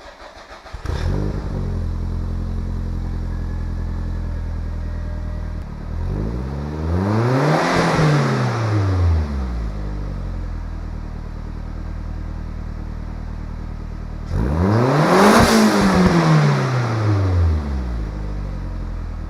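1988 Toyota Celica All-Trac's turbocharged inline-four idling through its exhaust with the muffler still on, revved twice, each rev rising and then falling back to idle. This is the stock-muffler exhaust note, which the owner finds too quiet.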